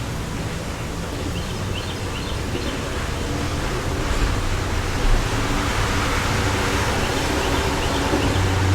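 Wind gusting through the neighbourhood, swelling about halfway through with a low rumble on the microphone. Faint short bird chirps come in twice.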